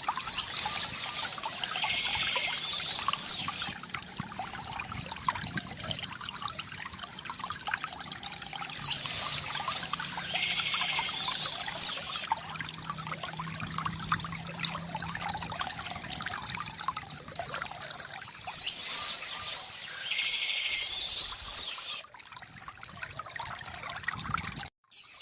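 A stream trickling and splashing steadily, with a bird singing in three phrases of about three seconds each, roughly nine seconds apart. The sound cuts out for a moment near the end.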